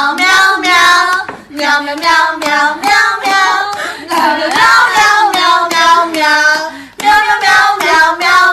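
A high-pitched voice singing a tune in short syllables, with a few brief breaks.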